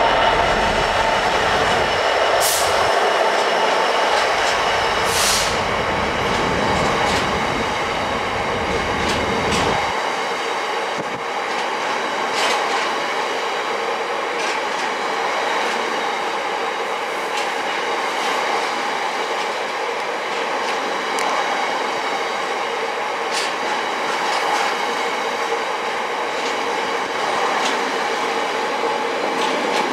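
GBRf Class 66 diesel locomotive passing close by, its low engine rumble dropping away about ten seconds in. It is followed by a long rake of coal hopper wagons rolling past, with steady wheel-on-rail noise, faint ringing tones and scattered sharp clicks from the wheels.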